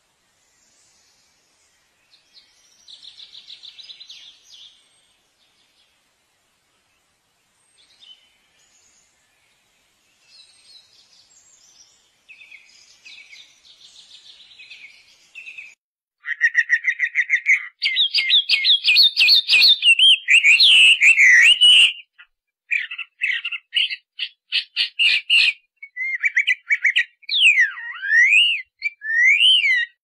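Bird calls: faint scattered chirps at first, then from about halfway loud, rapid chirping and trills with sweeping whistles.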